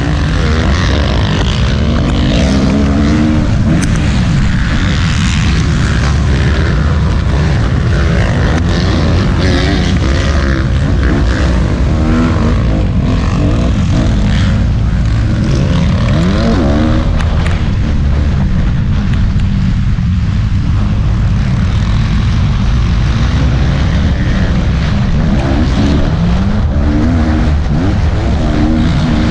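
Motocross bikes racing at full throttle, the engine pitch repeatedly climbing and dropping with throttle and gear changes over a constant loud noisy rush.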